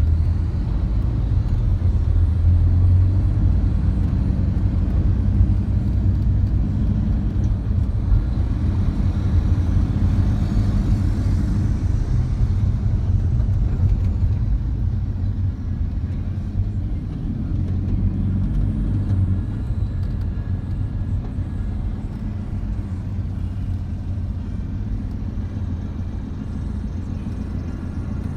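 Busy road traffic with trucks and cars passing: a continuous low engine and tyre rumble, louder in the first half and easing off toward the end.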